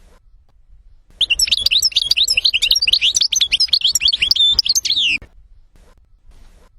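European goldfinch singing one fast, twittering song phrase about four seconds long, starting about a second in and stopping suddenly.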